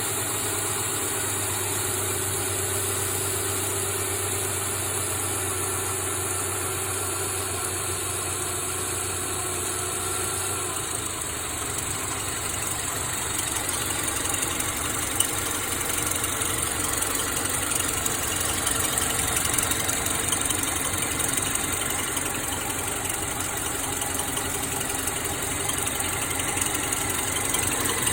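2009 Subaru Forester's flat-four engine idling with the air conditioning running. About ten seconds in, the transmission is shifted into reverse, the sound changes, and a chirping starts and goes on under the idle.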